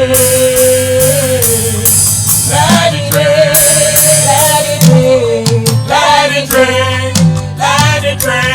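Live gospel praise music: a singer holding long sustained notes over a band, with steady percussion strokes, possibly tambourine, on the beat.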